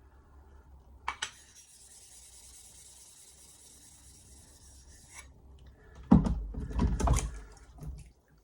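Whetstone being cleaned: a couple of clicks, then a steady hiss of running water for about four seconds, followed by about two seconds of heavy rubbing on the stone's surface.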